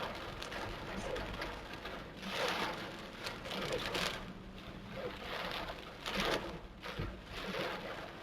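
Torrential rain pouring down, its hiss swelling and easing in gusts.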